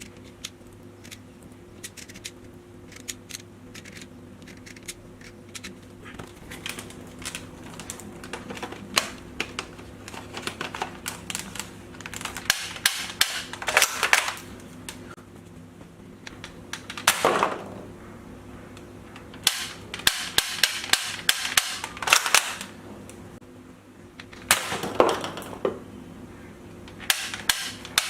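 A plastic toy ball-bullet gun being loaded: sharp plastic clicks and rattles as ball bullets go into its magazine. The clicks are sparse at first, then come in dense clusters from about twelve seconds in, broken by a few brief rustling sweeps.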